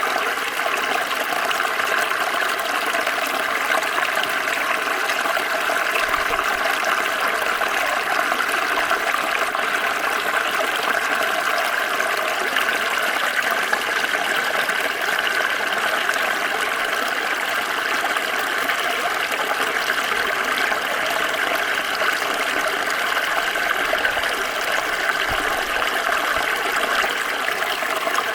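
Small stream flowing steadily, water running and splashing over stones.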